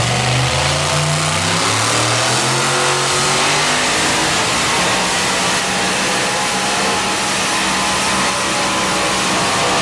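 Supercharged pickup truck engine running hard at high revs, pulling the sled in a truck pull. The pitch climbs a little over the first few seconds, then holds steady.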